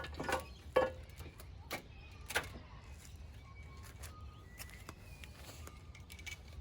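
Hand tools clinking and knocking against metal a few times in the first two and a half seconds, some strikes briefly ringing, over a low steady hum. A few faint short high tones follow.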